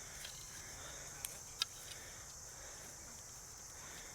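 Steady high-pitched drone of an insect chorus, with two short sharp knocks close together about a second and a half in.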